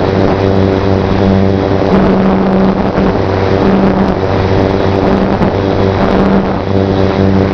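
Electric RC plane's brushless motor and propeller running steadily at a constant pitch, with heavy wind noise on the microphone. The buzz drops out briefly every second or so.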